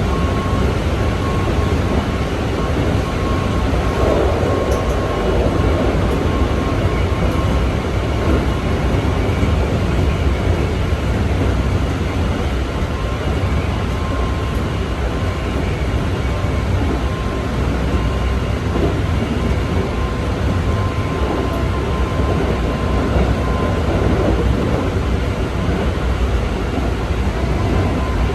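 Keikyu 1500 series commuter train running at speed between stations, heard from inside the car: a steady rumble of wheels on rail, with a faint steady tone that comes and goes.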